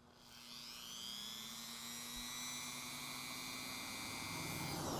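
Dremel rotary tool's small electric motor spinning up to a steady high whine, then winding down near the end. A low rumble rises in under it in the last second.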